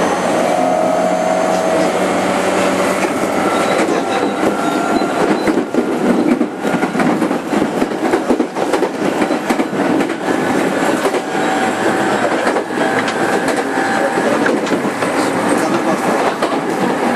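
JR 205 series 5000 subseries electric train heard from inside motor car MoHa 205-5022 while running: a steady rumble with frequent wheel clicks over the rail joints. Thin whining tones come and go over it.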